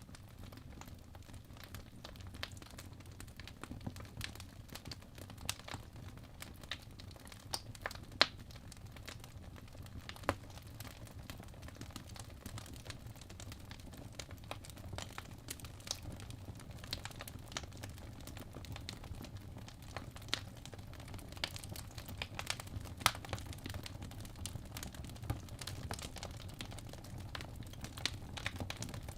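Logs burning in a fireplace: a steady low rumble with irregular sharp crackles and pops throughout, a few standing out loud, one about eight seconds in and another a little past twenty seconds.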